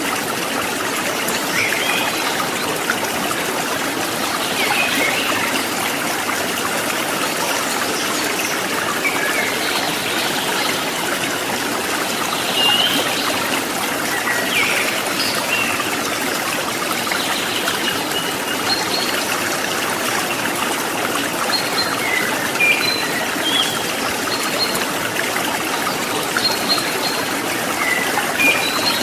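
Water of a stream trickling and babbling steadily, an even rushing hiss, with short high chirps scattered through it.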